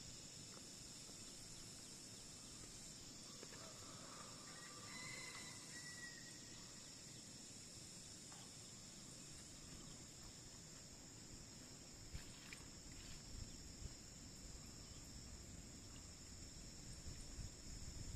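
Faint, steady high-pitched insect chorus of crickets or cicadas, with a few short bird calls about a third of the way in and a few soft knocks in the second half.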